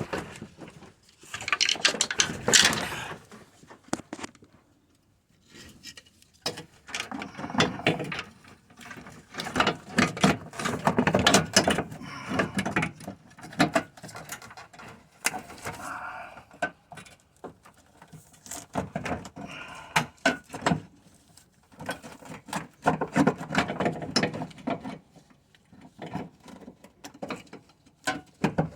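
Irregular clicks, knocks and clatter of tools and metal parts being handled while radiator mounting brackets are fitted, in bursts with a short lull about five seconds in.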